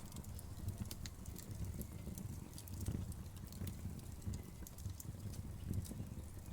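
Wood fire crackling: many small sharp pops and snaps at irregular moments over a low, steady rumble of the flames.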